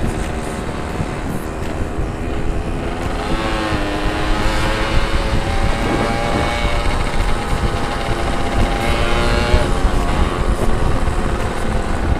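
Yamaha RX-King's two-stroke single engine running under way, its pitch climbing about three seconds in, holding high, then dropping back near the end, with a constant wind rumble on the microphone.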